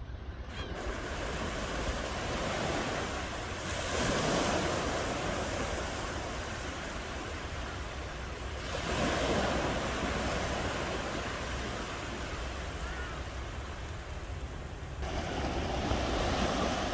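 Ocean waves breaking and washing on the shore, swelling three times about five seconds apart, over a steady low rumble of wind on the microphone.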